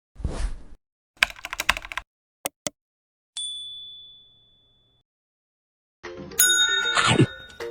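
A short rush of noise, then a quick run of clicks, two sharper clicks and a single bright ding that rings out and fades over about a second and a half. Music and other sounds start about six seconds in.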